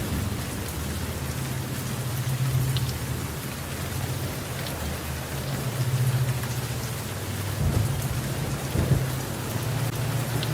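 Steady rain falling, with low thunder rumbling underneath that swells about eight to nine seconds in.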